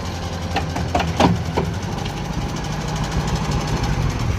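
Engine running steadily at idle, with a few short sharp knocks or clanks in the first two seconds.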